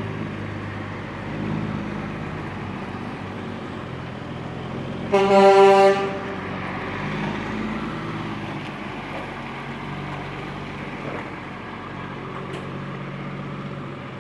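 Truck engines running steadily, with one loud horn blast lasting about a second, about five seconds in.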